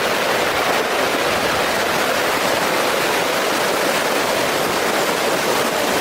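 Steady rushing of a fast mud and water flow, an even noise with no breaks.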